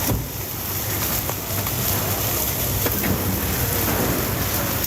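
Food sizzling on a street vendor's oiled griddle: a steady hiss over a low hum, with a few faint clicks.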